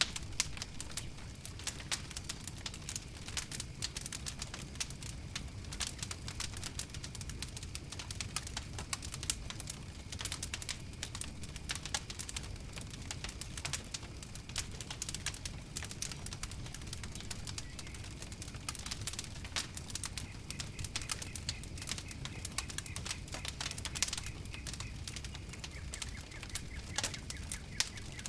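Wood fire crackling: frequent, irregular sharp pops and snaps over a steady low rumble of flames.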